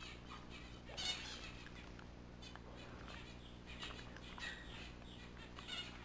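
Birds chirping faintly in short, scattered calls, one a little louder about a second in.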